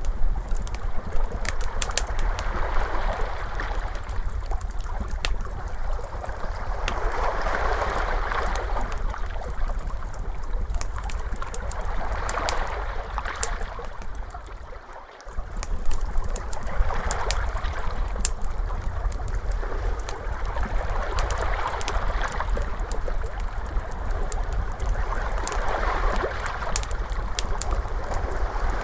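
Crackling fire snapping and popping over ocean waves that swell and wash in every five or six seconds. The sound briefly drops away about halfway through, then resumes.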